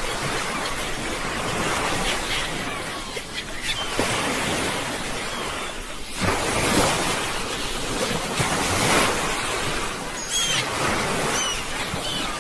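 Sea waves breaking and washing on a shore, the noise swelling and easing every few seconds, with a few short high chirps near the end.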